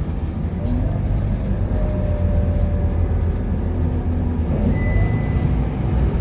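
Scania K230UB bus's diesel engine running under way, a steady low drone with its tone shifting as it pulls. A short high-pitched beep sounds about five seconds in.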